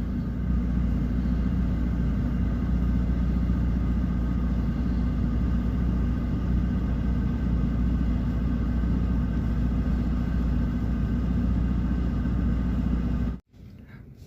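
Car running steadily, heard from inside the vehicle: a deep low drone with a steady engine hum. It cuts off suddenly near the end.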